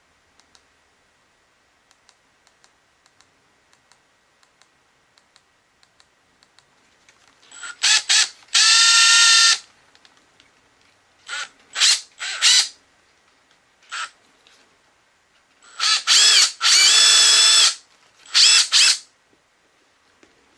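Makita TD172D brushless impact driver run with no load in a series of trigger pulls: the motor whines up to speed and stops several times, twice running for about two seconds, otherwise in short blips. Faint light clicks come before the first run.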